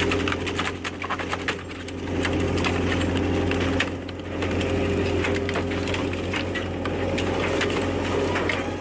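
A heavy scrap-crushing machine running with a steady mechanical hum, under irregular cracking and crunching as a scrap car's metal and glass are crushed. The sound dips briefly about a second in and again about four seconds in.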